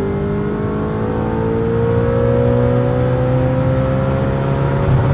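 Audi RS5 engine pulling under acceleration, its pitch climbing slowly and evenly.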